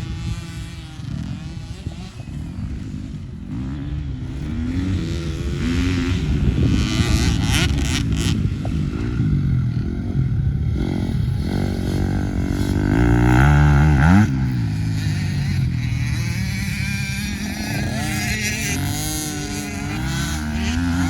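Motocross dirt bike engines revving up and down as they ride round the track, with the pitch rising and falling repeatedly. The loudest moment is a quick rise in pitch about two-thirds of the way through.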